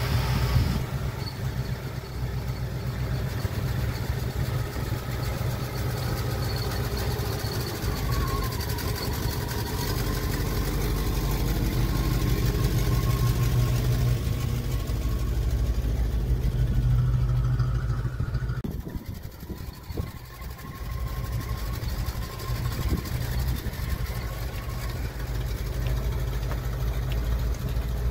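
Early-1950s Cadillac Series 62's 331 cubic-inch overhead-valve V8 running steadily at low revs, with a brief drop in level about two-thirds of the way through.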